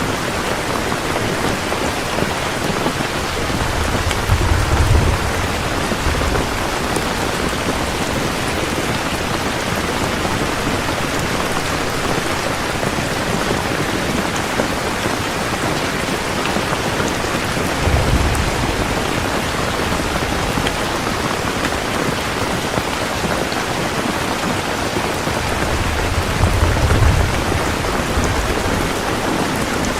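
Heavy rain falling steadily, with three low rumbles of thunder: about four seconds in, midway, and near the end.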